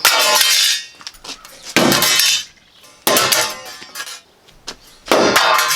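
Sheet-steel patch panel clanging four times as it is worked into shape. Each clang rings out briefly, about a second and a half apart.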